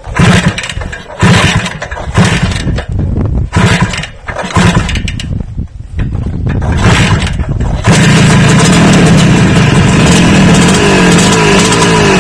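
Engine revved in a series of short surges, then from about eight seconds held at a loud, steady high speed.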